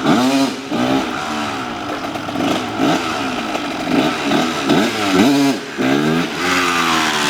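Dirt bike engine revving up and down over and over as it is ridden, its pitch rising and falling about once or twice a second.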